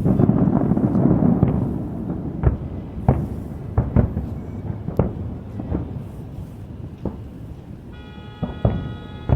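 Fireworks display: a low rolling rumble of bursts at first, then separate sharp bangs of shells going off every half second to a second. A faint steady whine joins in near the end.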